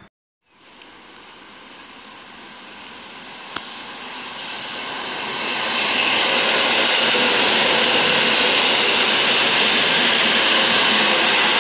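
Two coupled EN57 electric multiple units running through the station without stopping: after half a second of silence, the rushing noise of the train on the rails builds over about five seconds, then holds loud and steady as the carriages pass. A single sharp click about three and a half seconds in.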